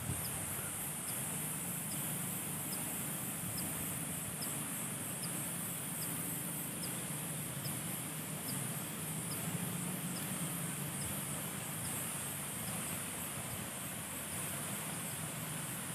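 Steady high-pitched insect chorus, with a short chirp repeating evenly about twice a second, over a low steady rumble.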